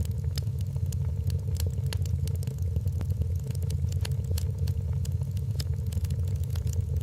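Wood fire crackling, with frequent sharp pops at an uneven pace over a steady low rumble.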